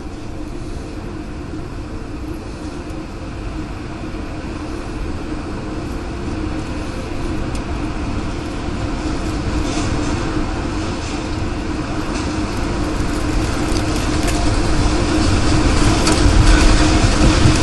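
A continuous low rumble of strong wind with a hiss over it, steadily growing louder, with a steady hum underneath.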